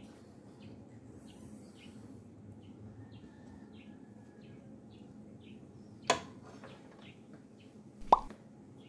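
Two sharp knocks, about six and eight seconds in, over a faint steady hum and a string of soft short chirps a couple of times a second.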